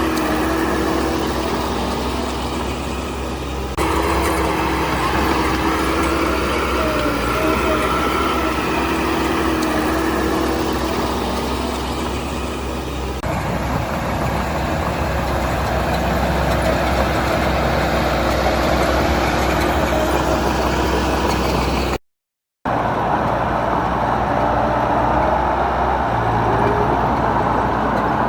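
Diesel engines of heavy earthmoving machinery running steadily. The sound shifts abruptly about 4 and 13 seconds in and drops out for a moment about 22 seconds in, where one shot cuts to the next.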